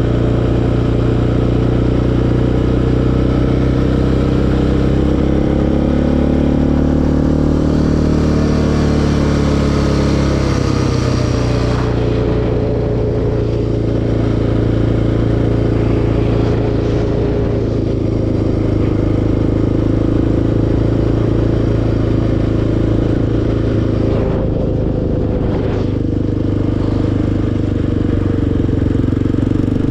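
Single-cylinder four-stroke ATV engine running on a trail ride. Its pitch climbs for several seconds as the throttle is held on, drops sharply about eleven seconds in, then rises and falls a little with the throttle.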